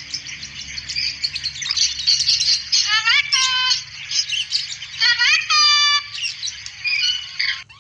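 Cockatoo calling twice with drawn-out, rising calls rich in overtones, over continuous busy twittering and chirping of small birds.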